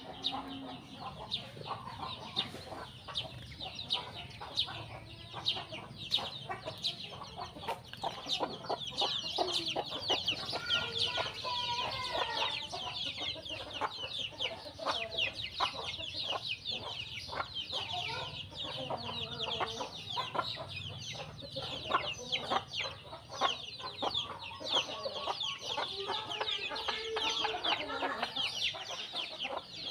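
Chickens clucking amid a flock of sparrows keeping up a dense, rapid chatter of high chirps.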